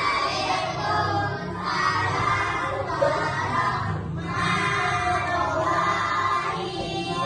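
A group of young voices singing together in unison, in phrases with short breaks between them.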